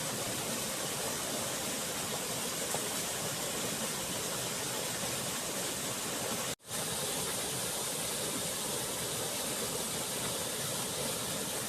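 Rushing runoff water after rain, a steady even hiss broken by a brief sudden drop-out a little past halfway.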